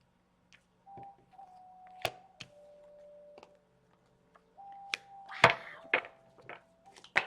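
Tarot cards being handled and laid down on a table: a few sharp snaps and taps, the loudest about five and a half seconds in. Under them runs a faint melody of long held notes that steps down and back up in pitch.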